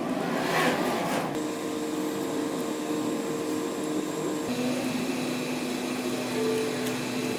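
A motor running with a steady hum, which shifts to a lower pitch about four and a half seconds in. A short rushing noise comes in just after the start.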